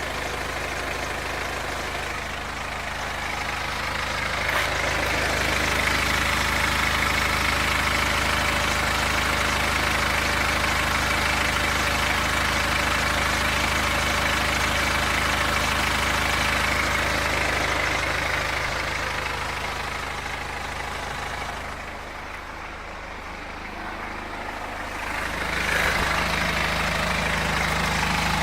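BMW X3 F25's 2.0-litre N47 diesel engine running with a strange noise, which the owner links to the timing chain. It grows louder about four seconds in, drops back around twenty-two seconds and picks up again near the end.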